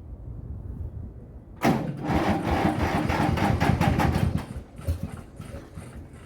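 Sachs one-cylinder two-stroke diesel of a 1958 Hummel DT45 being turned over, starting about a second and a half in with a sudden loud, regular beat of about five or six strokes a second. After about three seconds the beat thins out, turns uneven and fades, and the engine does not keep running. It is being cranked on a battery the owner finds weak.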